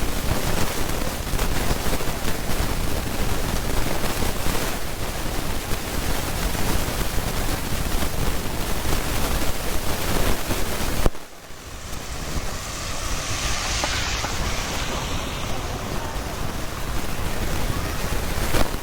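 Rain falling with wind buffeting the microphone, a dense steady rush. About eleven seconds in it drops away suddenly, then comes back softer and hissier.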